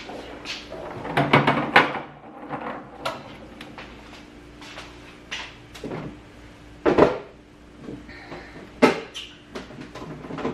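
Knocks and clatter of food and containers being set onto refrigerator shelves, with a cluster of hits about a second and a half in and two sharp, louder knocks about seven and nine seconds in.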